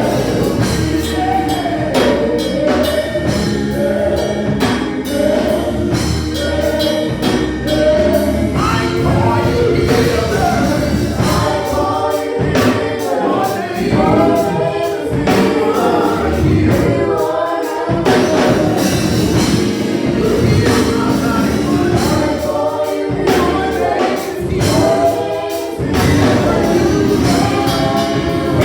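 Gospel music: a choir singing with a live band, drums and tambourine keeping a steady beat.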